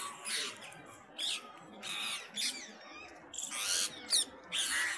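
Birds calling: a run of short, high-pitched chirps, several sweeping sharply up or down in pitch, with a few harsher screeching bursts in the second half.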